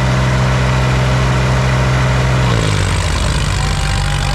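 Tractor diesel engines running hard, pulling against each other in a tractor tug-of-war. The steady engine note drops in pitch and turns rougher about two and a half seconds in, as if an engine is being lugged down.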